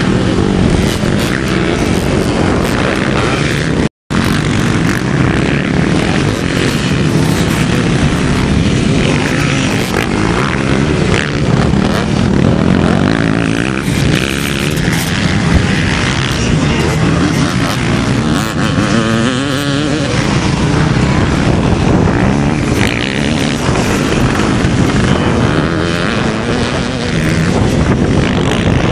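Vintage two-stroke motocross motorcycles running on a track, engines revving up and down as they ride past. The sound drops out briefly about four seconds in.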